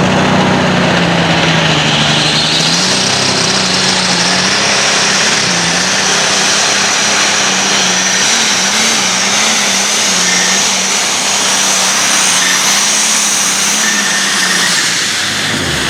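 A tractor-pulling competition engine running flat out and holding steady under load during a pull against the sled. A high whine rises in above it about two seconds in.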